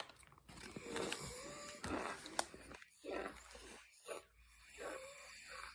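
Close-miked mouth sounds of someone eating cornstarch: breathy, wheezy chewing and sucking noises that come and go in short bursts.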